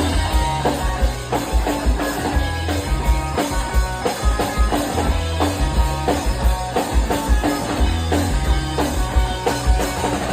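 Live punk-pop band playing an instrumental passage: electric guitars and bass over a steady drum kit beat.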